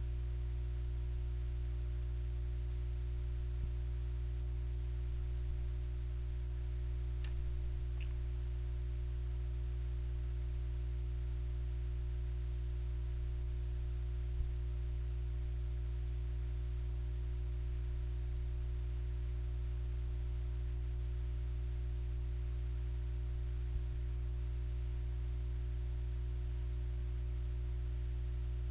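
Steady low electrical hum that does not change, with a few faint isolated clicks about four, seven, eight, fourteen and twenty-four seconds in.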